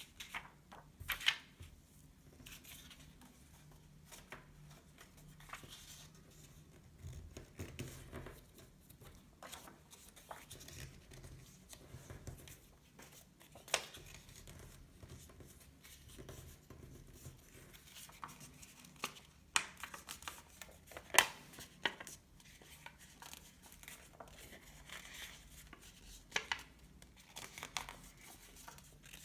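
Sheets of note paper being handled and folded by hand: scattered crinkles and rustles, with a few sharper snaps of creasing paper.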